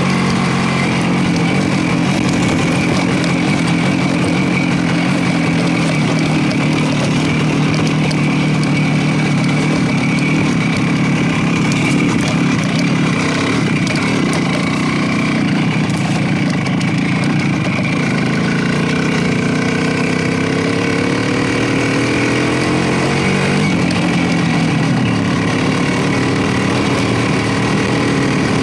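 Motorcycle engine running while riding, with a noisy rush over it. About eighteen seconds in, the engine note climbs steadily for several seconds, then drops suddenly.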